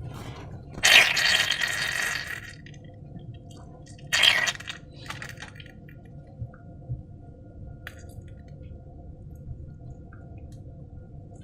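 Wet squishing of slime being worked by hand, in two bursts: a longer one about a second in and a short one around four seconds. After that only a faint steady background hum remains.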